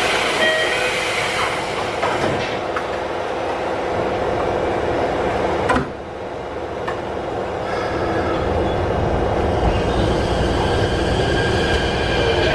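Inside a Keikyu 1500 series train car: the doors slide shut with a thud about six seconds in. A couple of seconds later the train starts to pull away, with the Mitsubishi IGBT-VVVF traction drive beginning to hum and the running sound slowly building.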